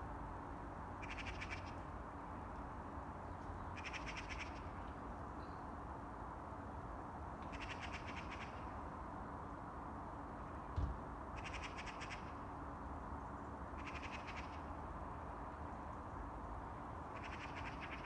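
A bird giving a short rattling call six times, every two to four seconds, over a steady low hum. A single thump comes a little past the middle.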